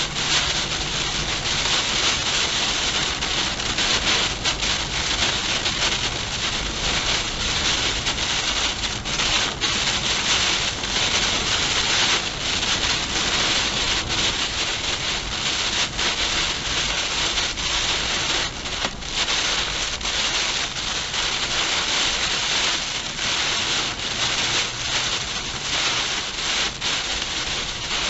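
Heavy rain and storm wind during a passing tornado: a loud, steady hiss of rain with a dense crackle of drops and gusts.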